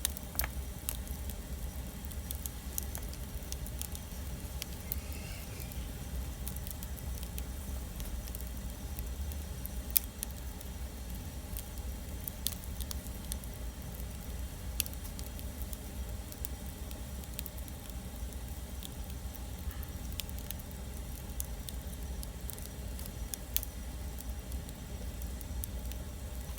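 Wood campfire crackling, with scattered sharp pops, the loudest right at the start and about ten seconds in, over a steady low rumble.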